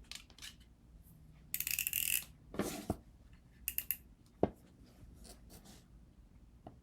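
Copper foil tape being handled and worked around glass edges: short bursts of crinkling and tearing, the loudest in the first half, with a few sharp clicks and a knock about four and a half seconds in.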